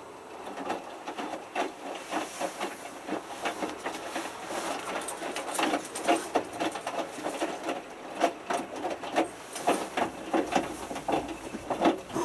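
Hotpoint Futura HF8B593 washing machine drum turning in the main wash of a whites cycle, tumbling a tiny load of three t-shirts in very little water: an irregular run of soft knocks and swishes as the clothes drop, starting about half a second in.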